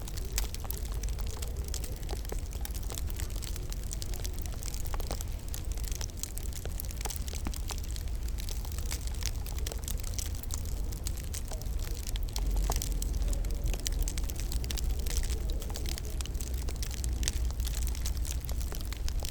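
Wood fire crackling in a fireplace: a dense, steady stream of small pops and snaps over a constant low rumble.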